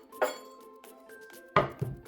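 Kitchen clatter: sharp knocks and clinks of utensils against dishes, one about a quarter second in and a louder pair near the end, some leaving a short ring. Soft background music plays underneath.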